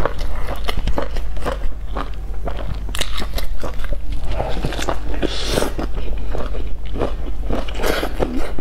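Close-miked eating of a crisp stuffed flatbread: repeated crunching bites and chewing with crackly mouth clicks, denser in the middle, over a steady low hum.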